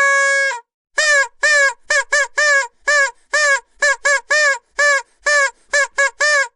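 Vuvuzela blown as one held note at the start, then a rapid string of short toots, about three a second, each bending up in pitch as it starts.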